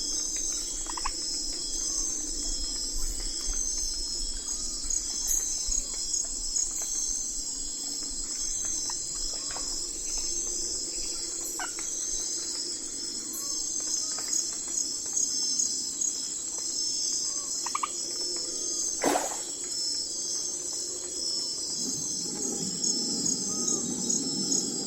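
Night forest ambience: a steady, high, pulsing chorus of crickets and other insects over a lower steady drone, with scattered short calls. A single sharp click comes about nineteen seconds in, and a lower-pitched chorus swells in near the end.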